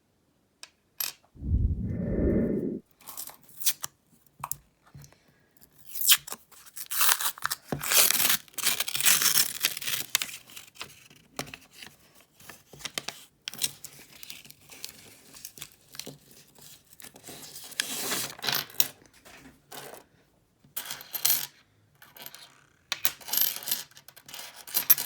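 Paper penny-roll wrappers being torn open and pennies spilling and clinking against one another, in several spells of rustling, with a dull thump about two seconds in.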